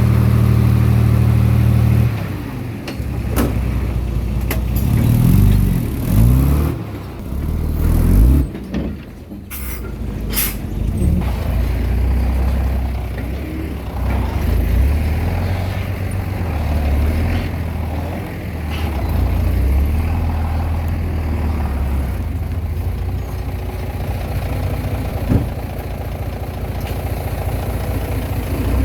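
Komatsu D20P bulldozer's diesel engine working, its pitch rising and falling several times between about four and nine seconds in as the load changes. A few sharp knocks come through in the first ten seconds.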